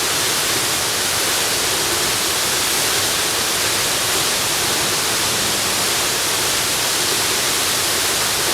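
Waterfall: steady rushing of falling water, an even hiss strongest in the upper range.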